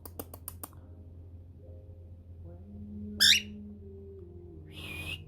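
Cockatiel giving one short, high, wavering chirp about three seconds in, after a quick run of clicks at the start. Faint steady tones sit underneath, and a short hiss comes near the end.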